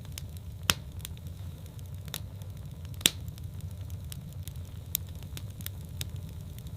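Fireplace fire crackling: a steady low rumble with scattered crackles and sharp pops, one pop just under a second in and a louder one about three seconds in.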